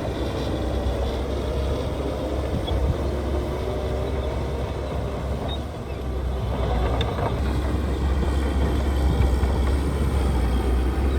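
Heavy construction machinery's diesel engine running with a deep, steady rumble, growing louder about two-thirds of the way in.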